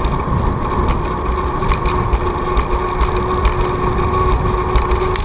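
Wind buffeting the microphone and rolling noise while riding a bicycle, a loud, steady rushing rumble with a steady hum running through it.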